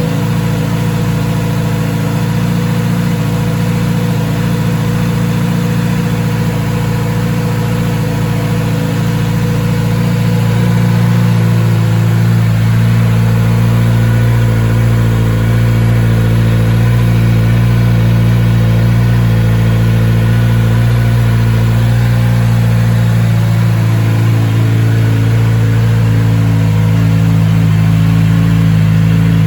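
Kawasaki Z900RS's inline-four engine idling steadily as it warms up after months without running, getting slightly louder about a third of the way in.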